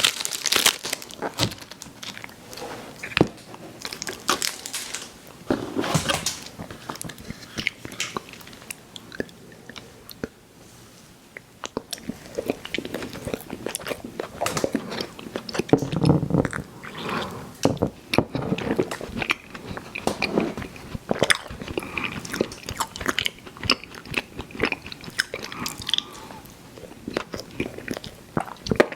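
Close-miked chewing of chewy fruit candy, with irregular wet mouth smacks and clicks. It eases off for a moment about ten seconds in, then grows busier again.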